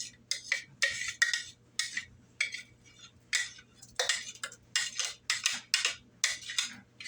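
A metal utensil scraping and clinking against a pot in quick, rhythmic strokes, about three a second, as food is stirred or pushed around in it.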